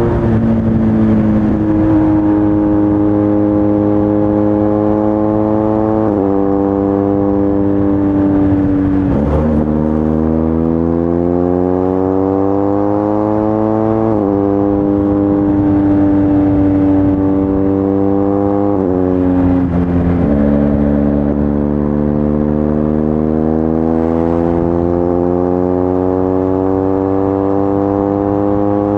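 BMW R1250 GSA's boxer twin through an Akrapovič titanium slip-on exhaust, riding under power. The engine note climbs slowly, then drops at each gear change, several times over.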